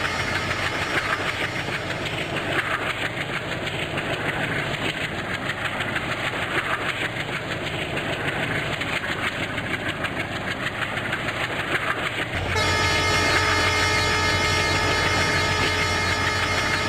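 Passenger train running on the track, wheels clicking over rail joints. About twelve seconds in the sound changes abruptly, becoming louder with several steady tones.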